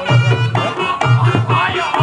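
Reog Ponorogo accompaniment music: a shrill reed melody that bends up and down over hand drums and a low pulsing beat about twice a second.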